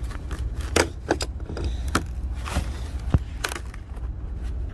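Scattered sharp clicks and knocks as the DEF level sensor is twisted and worked loose from its DEF tank, over a steady low rumble.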